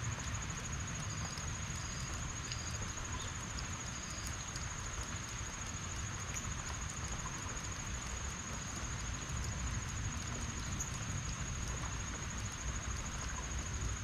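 Heavy rain falling steadily on a lawn, trees and hedges: an even hiss with a low rumble beneath. A thin, steady high-pitched tone runs through it.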